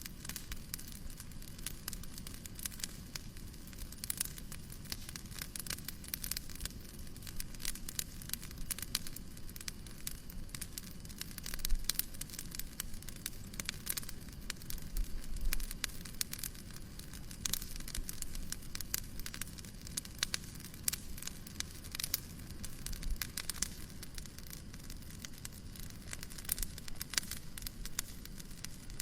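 Fireplace crackling: many irregular small pops and snaps over a steady low hiss, with a louder knock about twelve seconds in.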